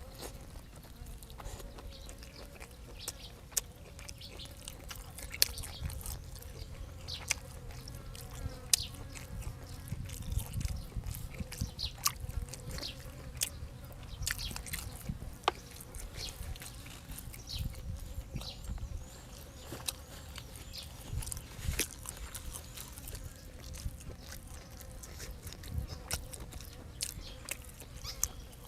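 Close-up chewing and eating: wet mouth sounds with scattered sharp clicks and crunches of food.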